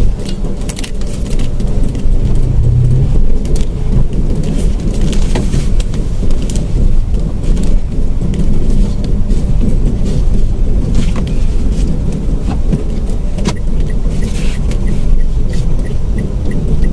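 Mitsubishi Mirage running along the road, heard from inside the cabin: a steady engine and tyre rumble with scattered knocks and rattles, and a brief rise in engine pitch a couple of seconds in. A faint, even ticking starts near the end.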